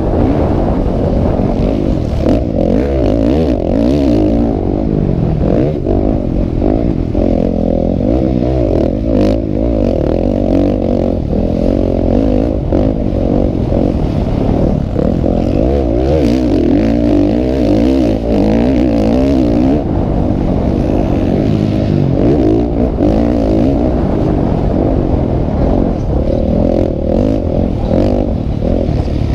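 Several motocross bikes' engines revving hard, their pitches rising and falling over one another as the riders accelerate and shift.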